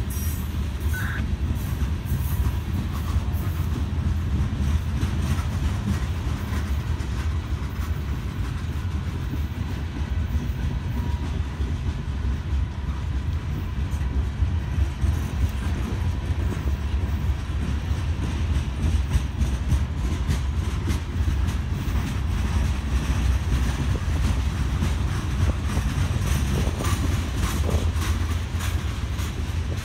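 Freight cars of a CSX manifest train rolling past close by: a steady low rumble of steel wheels on the rails, with many short clicks as the wheels pass over rail joints.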